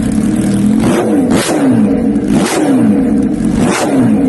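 A vehicle engine revving over and over, about once a second: each time a short burst of noise, then a pitch that falls away.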